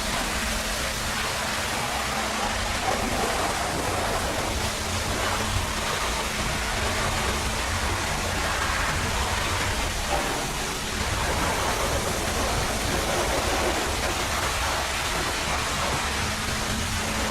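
Pressure washer spraying water: a steady hiss of high-pressure spray with a low, steady machine hum beneath it.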